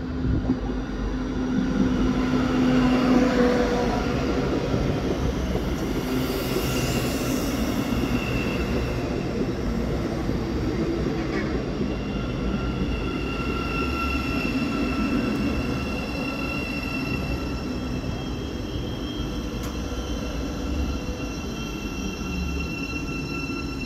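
Thameslink Class 700 electric train pulling slowly into the platform, with a steady electric whine and wheel rumble. It is loudest about three seconds in as the front passes.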